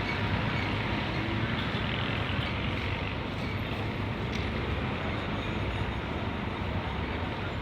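Steady road traffic noise with engines running, a low continuous hum under an even rush.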